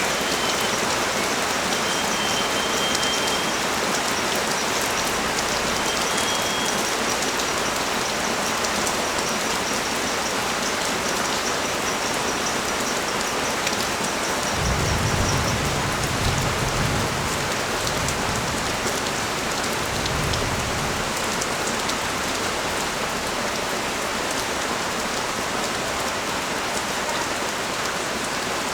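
Steady rain pouring onto surfaces, an even hiss, with a low rumble swelling for a few seconds about halfway through.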